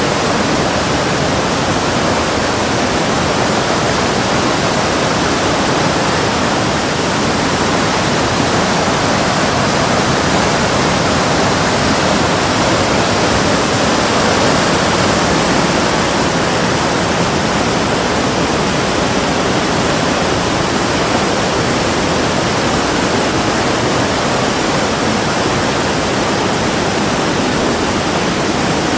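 Steady, loud rush of running water, unchanging throughout.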